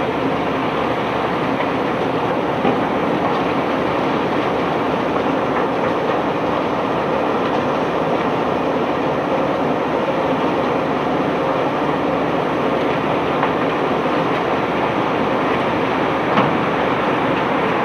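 Steady mechanical rumble of bulk unloading machinery working through a load of cobblestones, with a brief knock a few seconds in and another near the end.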